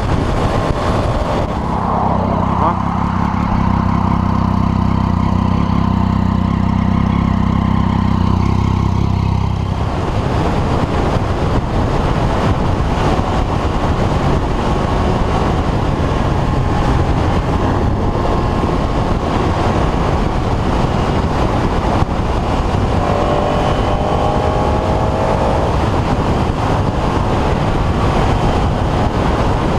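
Sportbike under way, recorded from the bike. For the first several seconds the engine's steady low drone stands out. About ten seconds in, a loud, even wind rush on the microphone takes over at speed, with brief rises and falls in engine pitch near the end.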